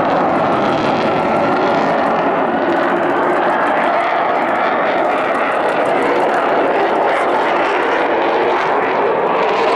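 Eurofighter Typhoon FGR4's twin Eurojet EJ200 turbofans at full power in afterburner through a loop: loud, steady jet noise.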